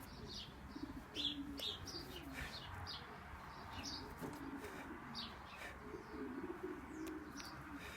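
Pigeons cooing softly, a wavering low warble throughout, with short high chirps scattered over it.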